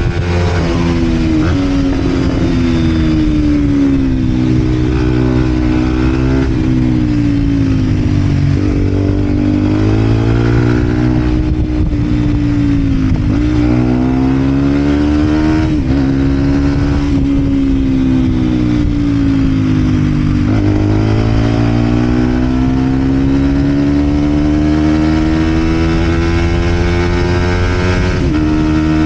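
Vent Derapage 125 four-stroke single-cylinder engine breathing through a full Scalvini exhaust, ridden on the move. The revs rise and fall throughout, with several sudden drops in pitch as gears are shifted.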